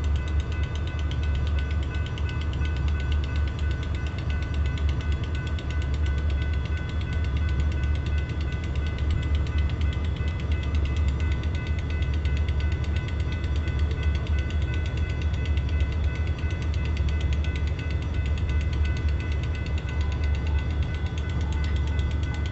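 Railroad grade-crossing signal bell ringing steadily and rapidly with the gates down, over a steady low rumble.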